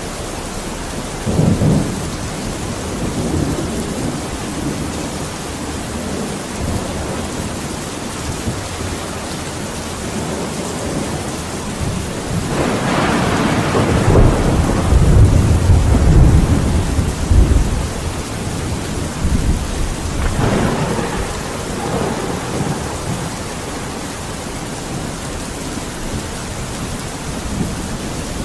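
Steady heavy rainfall with rolling thunder: a short crack about a second and a half in, then a long deep rumble that builds near the middle and peaks a few seconds later, and a weaker rumble a few seconds after that.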